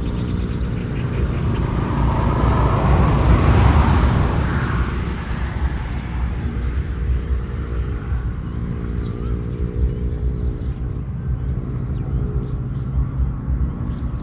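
A motor vehicle passing, loudest about three to four seconds in, over a steady low engine hum.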